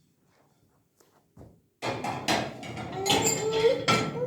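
Dishes and dishwasher racks clattering as a dishwasher is unloaded: quiet at first, then a run of sharp knocks and clinks starting about two seconds in.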